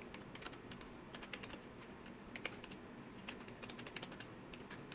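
Faint typing on a computer keyboard, irregular key clicks coming a few at a time.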